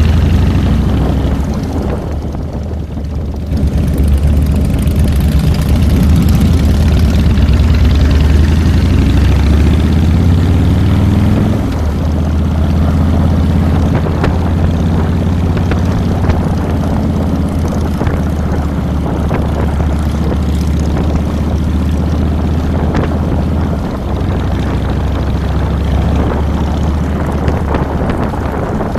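Harley-Davidson Fat Boy's air-cooled Twin Cam V-twin running under way. The engine note dips briefly about two seconds in, climbs as the bike pulls away, then holds steady.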